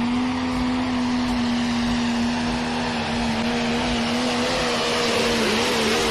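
Pro stock pulling tractor's 680-cubic-inch single-turbo diesel running hard at high revs, holding one steady pitch that wavers slightly near the end.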